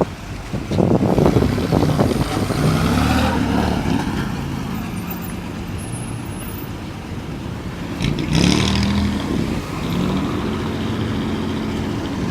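Car engine running and revving, its pitch rising and falling, with louder surges about a second in and again about eight seconds in.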